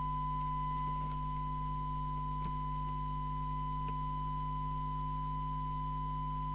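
A steady test tone from the signal generator, received and played through the FM CB radio's loudspeaker, holding one unwavering pitch over a low mains-like hum, with a few faint ticks as the set is adjusted.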